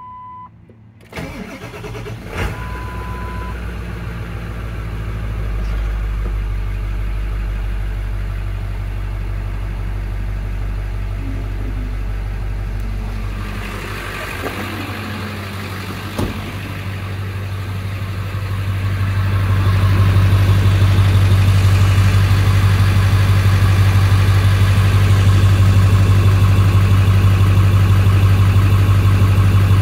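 1999 Ford F-250's 7.3L Power Stroke turbo diesel V8 cold-started: it cranks and catches about a second in, then runs at a steady idle. It gets louder about two-thirds of the way through and holds there. A short chime tone sounds just after it catches.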